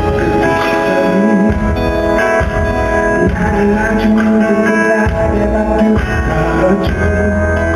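Live band music from a concert stage, a slow pop ballad with sustained chords, guitar and bass, playing through the arena's sound system.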